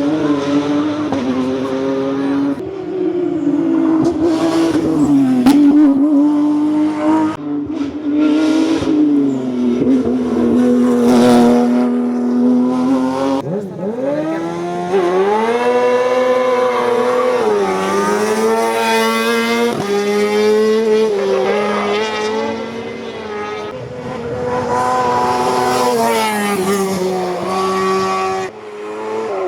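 Race car engine at full throttle on a hillclimb, holding high revs through the first half, then revving up through the gears with a sudden drop in pitch at each upshift.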